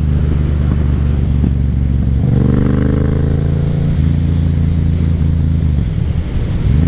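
Yamaha FZ-07's 689 cc parallel-twin engine running steadily under way, with a brief shift in engine note two to three seconds in.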